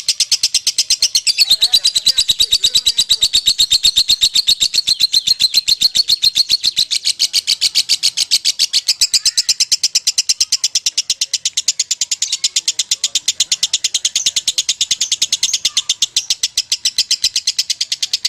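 Lovebird doing a long 'ngekek': a rapid, even, unbroken run of sharp, high-pitched chattering notes held for the whole stretch without a pause.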